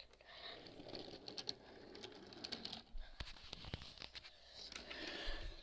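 Wooden toy trains being pushed along wooden track: a faint rolling rumble with many small clicks as the wheels cross the joints and the pieces knock together.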